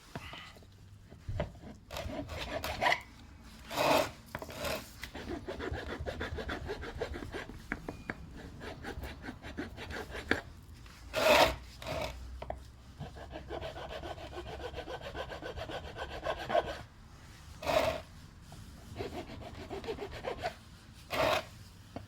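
A coarse file rasping on a lead car-battery post in quick repeated strokes, with a few louder scrapes, to reshape the damaged post so the terminal fits it well.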